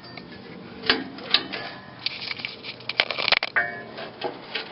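Irregular metal knocks, clinks and scrapes from hand work on an old rusted steel exhaust pipe and muffler. One strike a little past the middle rings briefly.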